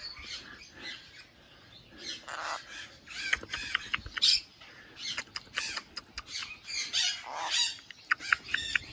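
Parrot calling: quick runs of short, sharp squawks and chirps that start about two seconds in and carry on to the end.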